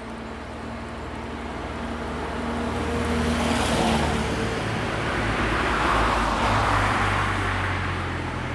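Mazda T2000 three-wheeled truck driving past, its engine drone and road noise building to a peak mid-way and easing off near the end.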